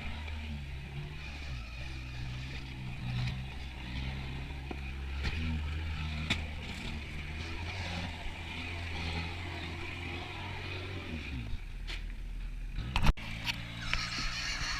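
Kubota turbo diesel in a Suzuki Samurai rock crawler running at low, fairly steady revs, with a few sharp knocks from the rocks. Near the end the engine note falls away, and after a sudden break a different engine sound with a higher whine takes over.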